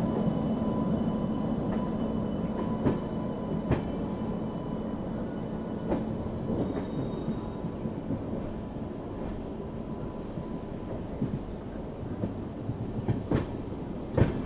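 Passenger train coach rolling slowly over track, a steady rumble with scattered sharp clicks as the wheels cross rail joints and points. A steady hum is heard in the first few seconds and fades out.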